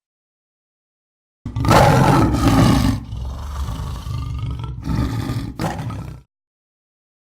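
A tiger roaring once: it starts about a second and a half in, is loudest for its first second and a half, then goes on more quietly with a second swell, and cuts off suddenly about six seconds in.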